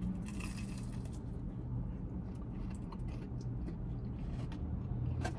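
A bite into a pizza stick, then quiet chewing with small clicks, over a steady low hum.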